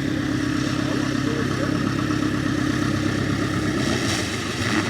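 Carbon Cub light aircraft's piston engine running steadily at low power while it taxis, an even engine hum with little change in pitch.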